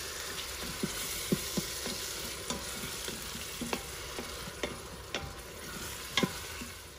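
Chopped tomatoes sizzling with onions in an Instant Pot's stainless steel inner pot, stirred with a wooden spoon that knocks against the pot now and then. The sharpest knock comes near the end.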